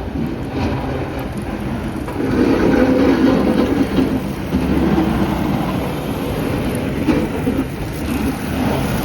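Street traffic: a motor vehicle running and passing close by, a loud, noisy rumble that swells from about two to five seconds in.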